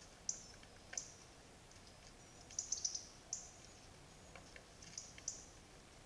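A bird's sharp, high, clicking chirps, about ten of them at irregular intervals, with a quick run of four near the middle.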